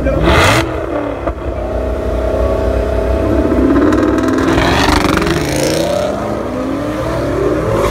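Two race cars, a Chevrolet Camaro ZL1 with its supercharged 6.2-litre V8 and a turbocharged Ford Mustang, launching and accelerating hard, with engine pitch climbing, dropping back and climbing again. There is a short loud burst right at the start.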